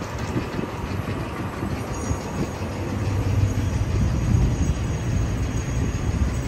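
A steady low rumble of city noise, a little louder around the middle, with a faint high whine joining in about two seconds in.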